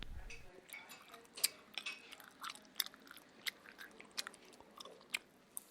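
A person chewing noisily and smacking their lips: faint, irregular wet mouth clicks, about two or three a second.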